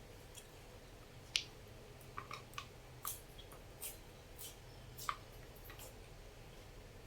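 Eating sounds from someone eating noodle soup: about ten short, soft clicks and wet smacks of chewing, scattered over a few seconds, the sharpest about a second and a half in.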